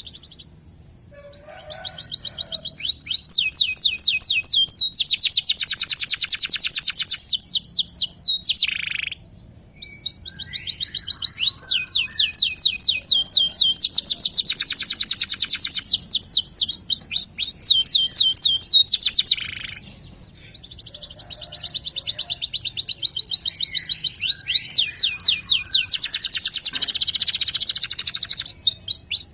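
Local canary singing in full voice: long, fast trills and rolls of rapidly repeated high notes, in long phrases broken by short pauses about 9 and 20 seconds in.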